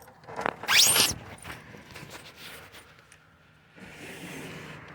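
A hospital room window being pushed open, its frame giving a short, loud rising squeal about a second in, followed by softer scraping and a rustling hiss near the end.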